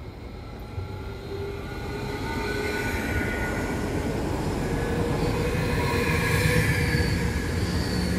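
SBB electric multiple-unit passenger train running past close by, its running noise growing louder as it nears, with steady whining tones over the rumble of the wheels.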